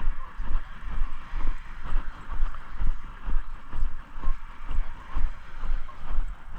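Footsteps of a person walking: low thuds about twice a second at an even walking pace, over a steady hiss.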